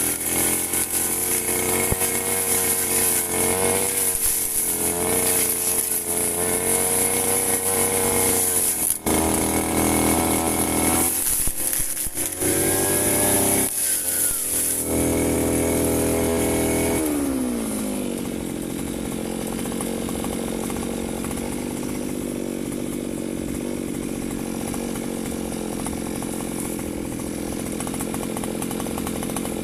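Firman FGB 528 brush cutter engine running at high revs, its pitch wavering as it cuts grass. About two-thirds of the way through the throttle is let off and the engine falls to a steady idle.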